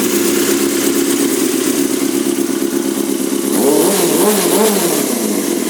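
2004 Yamaha YZF-R6's inline-four engine idling through a Yoshimura exhaust, with two quick throttle blips a little past the middle that rise and fall in pitch before it settles back to idle.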